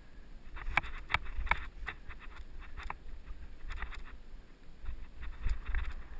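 Mountain bike rolling over a rough dirt trail: a string of sharp clicks and knocks from the bike rattling, over a steady low rumble of wind on the helmet-mounted camera.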